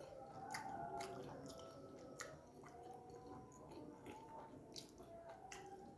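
Close-miked chewing of a mouthful of rice and side dishes, with irregular soft clicks of the mouth and teeth.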